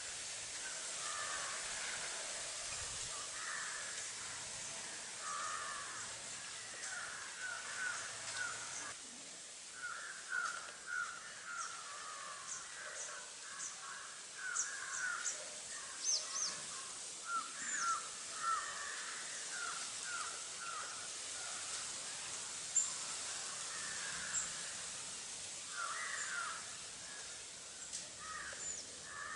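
Drongo calling: runs of short harsh notes, several a second, with sharp high chips here and there.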